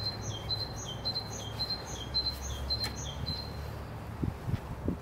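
A small bird calling a quick high phrase of about three notes over and over, roughly twice a second, which stops a little before the end. Under it runs a steady low rumble, and a few dull knocks come near the end.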